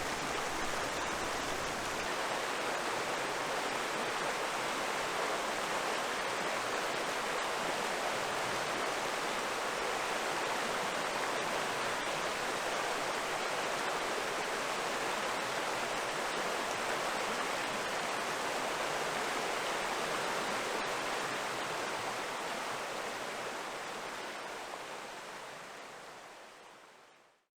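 Steady rush of river water, fading out over the last few seconds.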